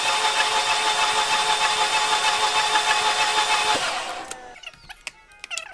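Starter motor cranking the Volkswagen 1.8-litre turbo four-cylinder for a compression test, an even, steady whine that stops about four seconds in and winds down. Several cylinders read zero compression, which points to trouble in the valve train or bottom end. Faint squeaks follow near the end.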